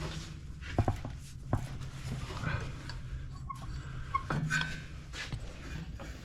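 A few sharp knocks and clinks of tools and metal on a Ford 1720 tractor's engine as the fan belts are worked off the pulleys, with some short high squeaks in between.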